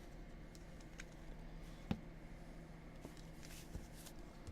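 Quiet room tone with a steady low hum and a few faint, short clicks, about one and two seconds in and again near the end.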